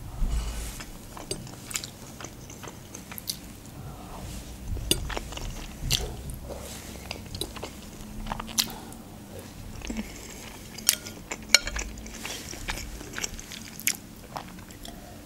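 Close-miked chewing of soft fusilli pasta soaked in stewed-meat broth, with scattered sharp, wet mouth clicks and smacks.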